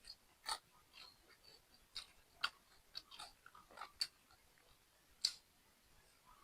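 Close-up chewing of crunchy fried dried fish, with irregular sharp crunches and clicks every half second or so.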